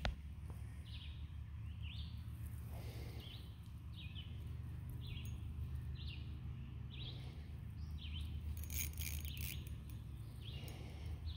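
A bird calling over and over with a short rising chirp, repeated about once or twice a second, over a low steady rumble on the microphone.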